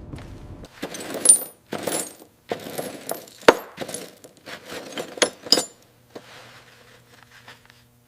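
Pieces of scrap metal clinking and clattering as they are rummaged through and handled: a run of sharp, ringing metallic knocks that dies away after about six seconds.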